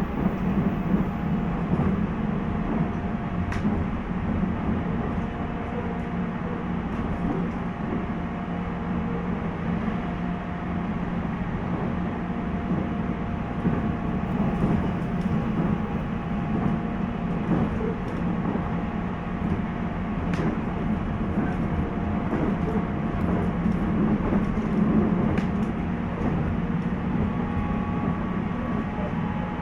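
Running sound inside a JR East 719-series electric multiple unit car, KuMoHa 719-1, cruising steadily: a continuous rumble of wheels on rail with a faint steady whine from the traction motors and gears, and a few faint clicks. This car is the one the uploader suspects of making an abnormal noise.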